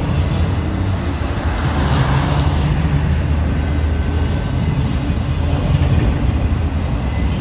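BNSF autorack freight train rolling past, a steady loud low rumble of wheels on the rails.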